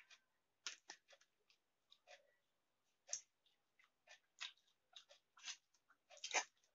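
Close-up eating sounds of a person chewing a fried egg omelette: irregular soft wet clicks and lip smacks, several a second, with the loudest near the end.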